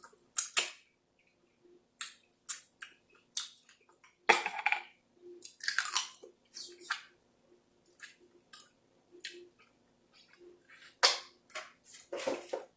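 A person chewing food close to the microphone, with scattered short mouth clicks and brief bursts of chewing. The loudest bursts come about four, six, eleven and twelve seconds in.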